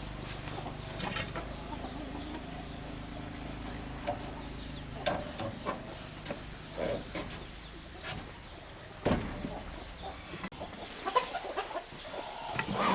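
Chickens clucking, mixed with scattered sharp knocks and taps.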